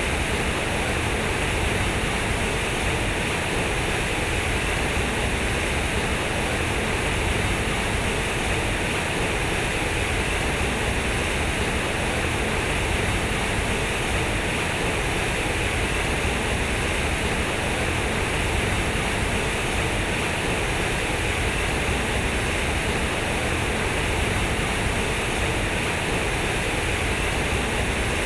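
Steady, even rushing noise like static or falling water, with no beat, tune or change in level.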